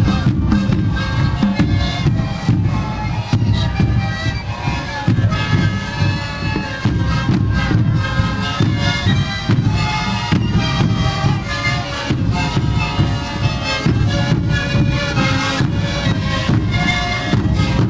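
Sikuri ensemble playing massed siku panpipes in a breathy, many-voiced chorus over a steady drum beat.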